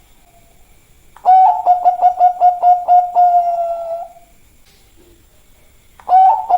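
Zebra dove (perkutut, Bangkok song strain) cooing: about a second in, a quick run of short, evenly spaced coo notes over a steady tone lasts about three seconds, and the next phrase starts near the end.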